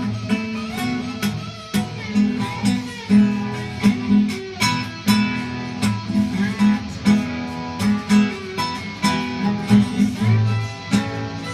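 Instrumental break of a folk-style song: acoustic guitar playing a plucked, strummed accompaniment with a steady bass pattern.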